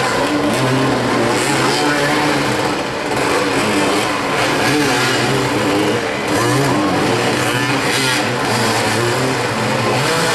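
Several motoball motorcycles' engines running and revving together, their pitches rising and falling as the riders accelerate and brake.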